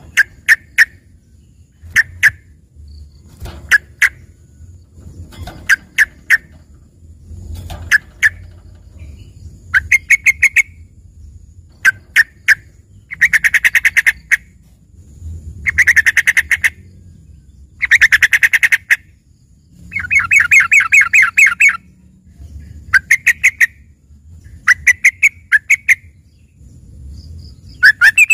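Yellow-vented bulbul (trucukan) singing: short bursts of rapid, chattering notes every second or two, with a few longer rapid runs through the middle. Its song is full of learned fill-in phrases (isian) likened to a greater green leafbird's (cucak ijo).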